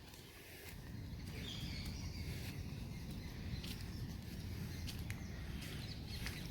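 Outdoor rain ambience: scattered sharp ticks of raindrops pattering, and a few bird chirps, over a low rumble that swells about a second in and then holds steady.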